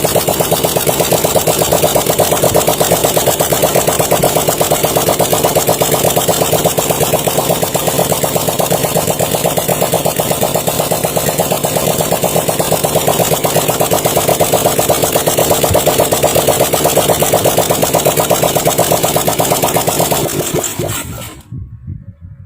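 Suzuki Satria FU motorcycle with a custom three-cylinder engine, running steadily with an even pulsing beat. About 20 seconds in, the engine dies away and stops.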